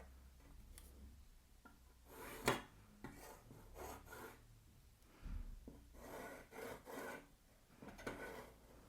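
Rubbing and scraping of a pencil and ruler on a wooden board, in several strokes, with one sharp knock about two and a half seconds in.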